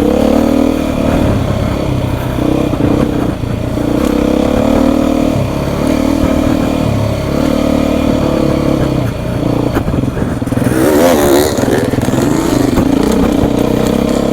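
Beta 350 RR single-cylinder four-stroke dirt bike engine running on the throttle, its revs rising and falling as the rider rolls on and off. About eleven seconds in the engine note wavers sharply and gets noisier for a moment.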